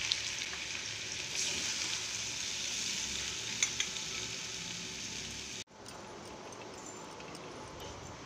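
Potato fry sizzling in a pan while a steel spoon scrapes and clinks, scooping it into a steel lunch box, with two quick clinks about three and a half seconds in. About five and a half seconds in the sound cuts to a fainter steady hiss.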